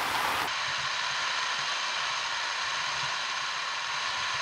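Torrential simulated rain of 180 mm an hour, falling from the overhead nozzles of a large rainfall simulator onto pavement, as a steady dense hiss. About half a second in, the sound turns abruptly duller.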